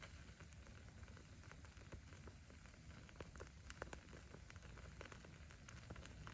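Faint crackling of a wood fire: irregular sharp pops and snaps of burning firewood over a low steady rumble, with a cluster of louder pops in the middle.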